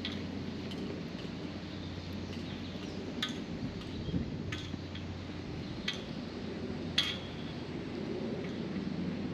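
Steady low hum with about six sharp, ringing clinks at irregular intervals, the loudest about seven seconds in.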